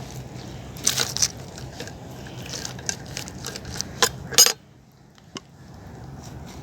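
Dishes and utensils clinking and knocking in a series of short, sharp clatters, the loudest about four seconds in, over a steady low background; the background drops away abruptly just after.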